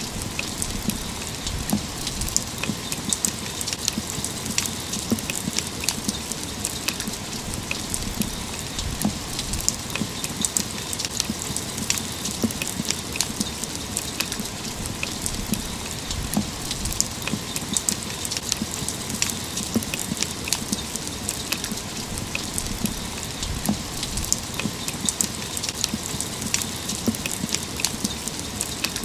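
Steady rain falling on a metal railing, with many sharp, close drop hits over a constant hiss of rainfall.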